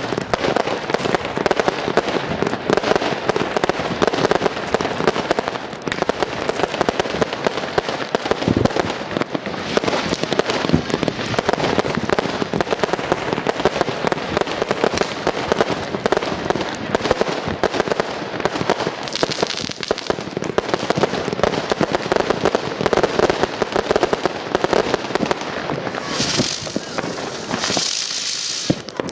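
Professional fireworks display: a dense, continuous barrage of rapid pops and crackles from shells bursting overhead, with a hissing rush near the end.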